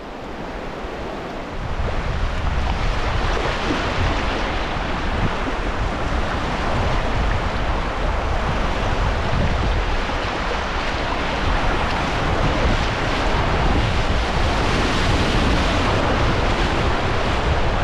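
Steady rushing noise of river current running past a kayak, mixed with wind buffeting the microphone. It swells about a second and a half in and then holds at an even level.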